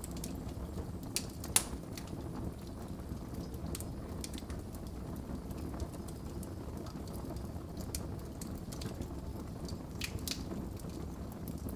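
Wood fire burning in a fireplace: a steady low rumble of flames with scattered sharp crackles and pops, the loudest about one and a half seconds in.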